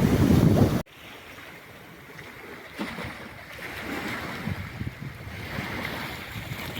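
Sea surf and wind buffeting the microphone; about a second in it cuts off sharply to a quieter stretch where waves wash in again.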